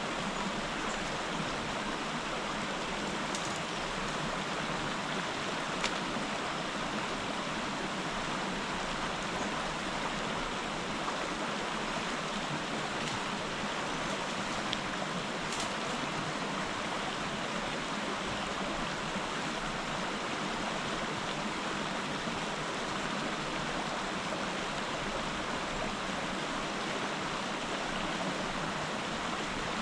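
Steady rush of flowing river water, with a few faint ticks scattered through it.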